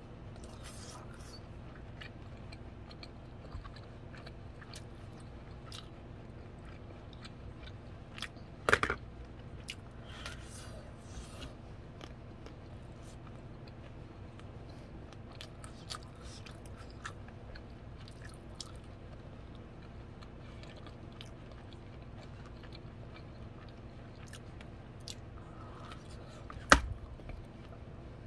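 A person eating boiled waxy corn off the cob close to the microphone: soft chewing and biting with many small clicks of the kernels, over a steady low hum. Two louder sharp sounds stand out, about nine seconds in and near the end.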